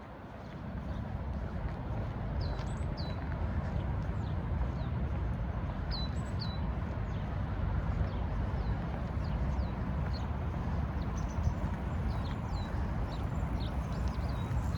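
Small birds calling with many short, high chirps that drop in pitch, heard over a steady low rushing noise.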